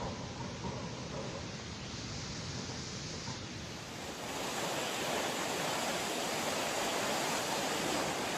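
A steady rush of surging surf, growing louder about four seconds in.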